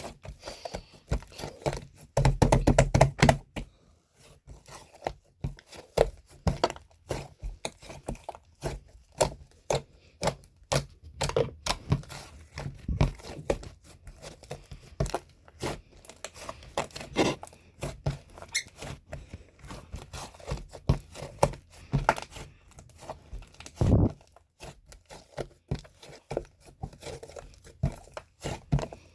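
An irregular run of short close-up taps, clicks and crinkles, like objects or packaging being handled, with a louder clatter about two to three seconds in and one heavier thunk about 24 seconds in.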